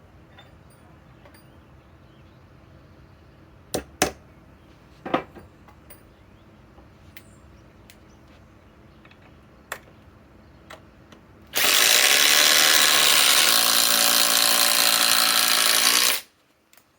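A few handling clicks, then a cordless impact driver hammering for about four and a half seconds as it drives a 4-inch TimberLok structural screw into wood. The pitch shifts lower about two seconds in as the load builds, and the sound stops abruptly when the screw seats.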